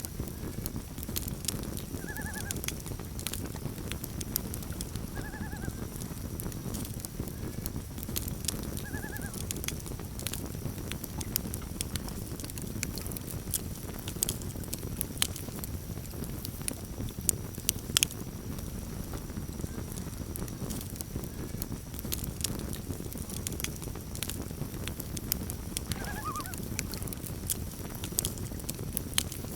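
Campfire crackling with frequent sharp pops over a low steady rumble, while a distant water bird gives a handful of short calls a few seconds apart, two of them close together near the end.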